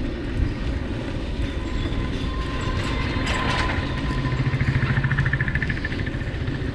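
A motor vehicle's engine passes close by, its fast even pulsing loudest from about four to six seconds in, over a steady low rumble of road noise.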